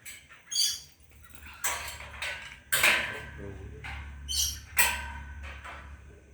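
A bird chirping twice, short high calls, among three louder sharp noisy bursts like clattering or scraping, over a low steady hum.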